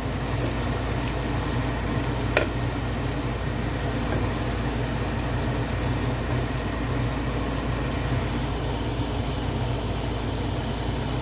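Steady low mechanical hum with an even background noise, broken by a single sharp click about two and a half seconds in.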